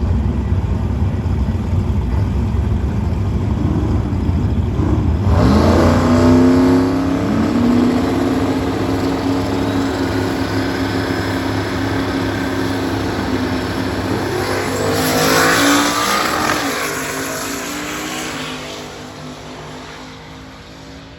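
Drag cars at the start line with a loud low rumble, then launching at full throttle about five seconds in, the engine pitch rising steeply and held high as they run down the strip. The sound fades away near the end.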